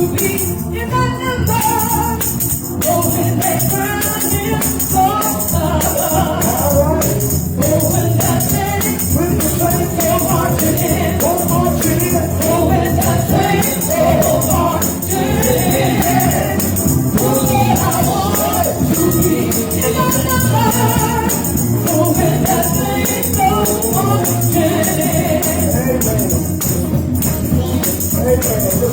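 Gospel song sung by a group of voices in church, with a tambourine shaken in rhythm throughout.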